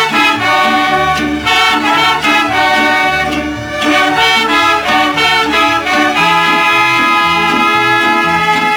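Mariachi band playing an instrumental passage, trumpets carrying the melody over a moving bass line.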